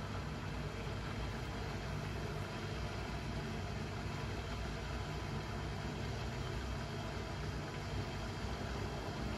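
Blomberg fuzzyDigitronic Granat 3200 washing machine running with a steady low hum and an even hiss, with no change in level.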